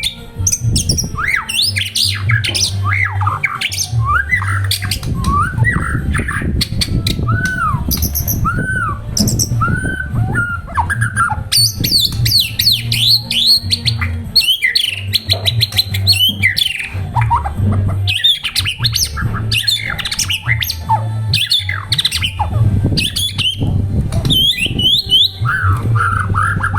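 White-rumped shama singing a long, varied song of rising and falling whistles and fast chattering notes, over an on-and-off low hum.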